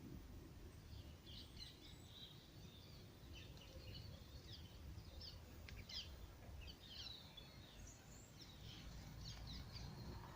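Faint woodland birdsong: many short, high chirps and twitters from small birds, over a low steady background rumble.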